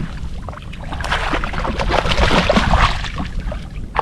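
Water splashing and sloshing around a kayak while a hooked speckled trout is fought close to the boat, with short irregular splashes and knocks over a low rumble.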